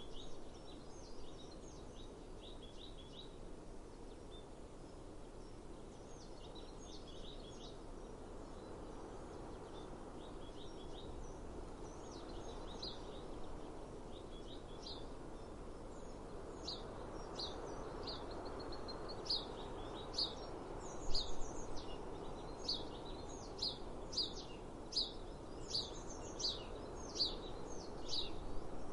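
Outdoor ambience of small songbirds chirping over a steady low background rush. Scattered short trills come in the first half; from about two-thirds of the way in, a bird gives a quick run of sharp, falling calls, close to two a second, the loudest sounds here.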